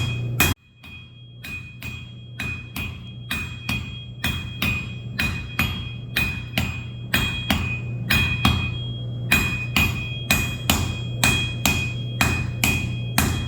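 Hand hammer striking a hot railroad spike on an anvil, about two blows a second, each blow leaving a bright metallic ring over a steady low hum. The blows break off sharply about half a second in, then resume softer and grow louder.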